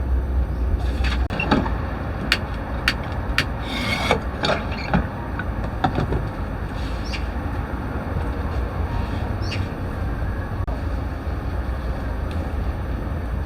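Street ambience: a steady low rumble of traffic, with a run of sharp clicks and knocks during the first six seconds or so.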